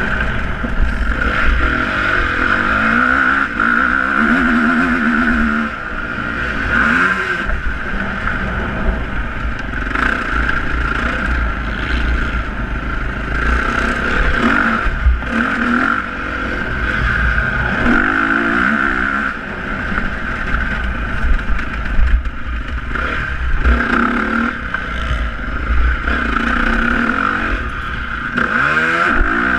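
Motocross motorcycle engines revving, the pitch climbing and dropping again and again as the throttle opens and closes, over a constant low rumble.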